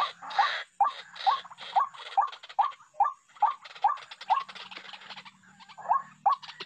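White-breasted waterhen calling: a fast run of repeated harsh croaking notes, about two to three a second, each with a short upward hook. The calls thin out and pause for about a second past the middle, then start again near the end.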